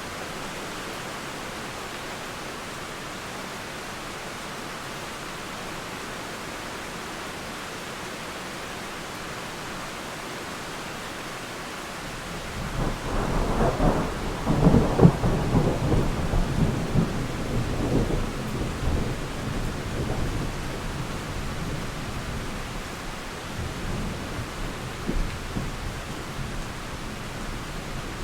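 Steady rain falling, then a little under halfway through a roll of thunder breaks in, peaks within a few seconds with sharper cracks, and rumbles away over the next ten seconds or so.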